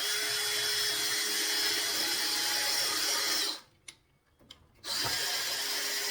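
Power drill driving screws into wood: the motor runs steadily for about three and a half seconds, stops, and after a couple of small clicks starts again near the end.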